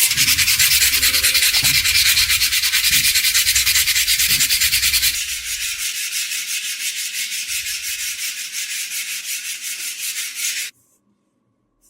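Abrasive scrubbing of rusty steel: rapid, even back-and-forth scratching strokes. It gets quieter about five seconds in and cuts off suddenly near the end.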